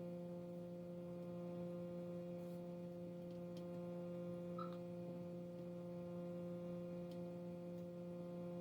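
A steady, unchanging electrical-sounding hum, one pitch with overtones, with a few faint clicks scattered through it.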